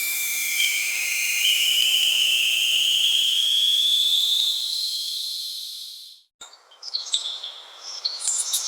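A high, hissing insect chorus with a whine that slowly rises in pitch, fading out about six seconds in. Light clicks and chiming music start near the end.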